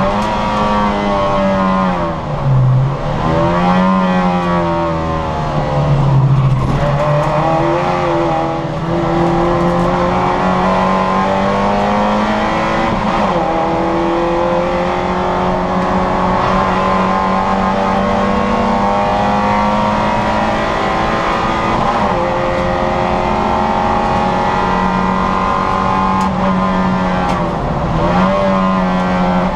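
Citroën Saxo VTR's four-cylinder petrol engine running hard in a race, with the revs dropping sharply about two and six seconds in and climbing again, then a long stretch at steady high revs before a short dip near the end.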